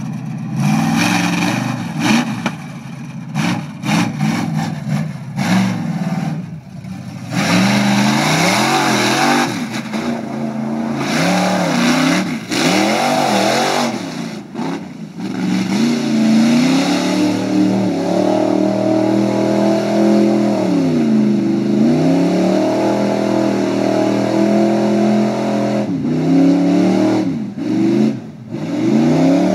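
Top truck's engine revving hard in quick repeated bursts, the pitch swinging up and down, then held at high revs for about ten seconds with one brief dip midway.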